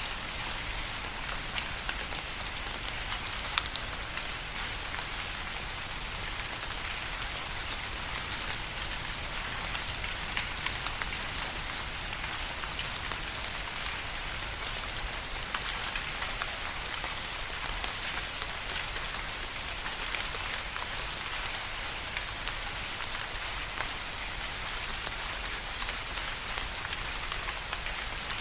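Steady rain falling on a surface, an even hiss with many individual drops ticking through it and a few louder drop hits here and there.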